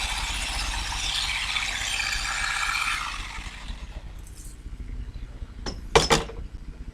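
Rattling, scraping clatter of olive harvesting work that dies away about three seconds in, followed by two sharp knocks near the end, the second the loudest.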